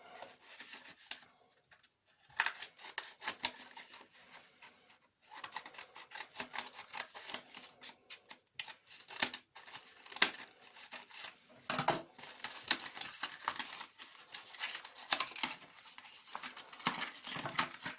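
A glue package being opened by hand: a run of sharp plastic clicks and crackles with short pauses between them.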